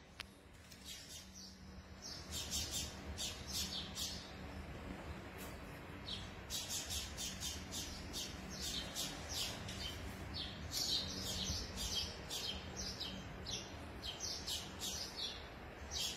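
Small birds chirping: many short, quick high chirps in bunches, over a steady low hum.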